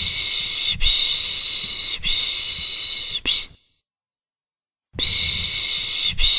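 A person shushing 'pış pış' (shh-shh) to soothe a baby: a run of hissing shushes about a second apart, a pause of about a second, then the shushing starts again.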